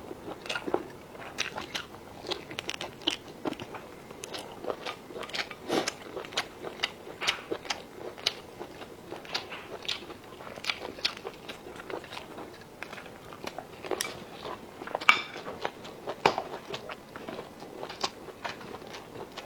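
Close-miked eating: a person biting and chewing crunchy food, with many quick irregular crunches and wet clicks, one sharper crack about fifteen seconds in.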